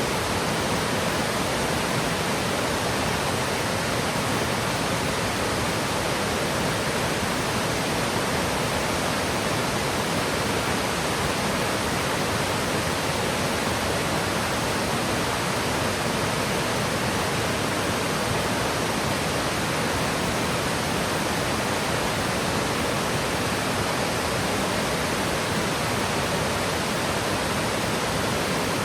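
Yudaki waterfall, water cascading down a steep rock slope, giving a steady, even rush of water with no breaks or changes.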